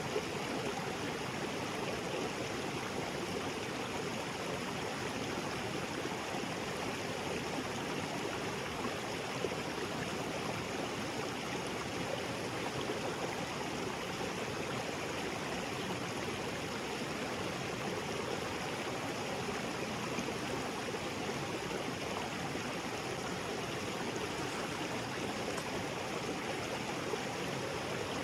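Small waterfall and creek water splashing and flowing over rocks in a steady, even rush.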